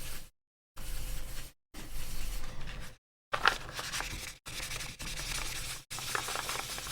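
Sandpaper rubbing back and forth on the plastic AirPods Pro case in wet sanding, a scratchy rasp. It cuts in and out abruptly several times.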